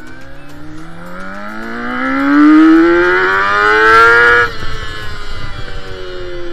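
Monkey 250 motorcycle engine breathing through a newly fitted aftermarket silencer, accelerating with its pitch rising steadily and getting louder for about four seconds. Then the throttle is shut suddenly and the exhaust note drops and falls away slowly as the bike slows.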